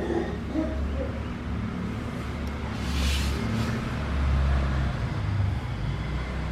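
Steady low rumble of outdoor background noise, like distant traffic or wind on the microphone, with a brief hiss about three seconds in.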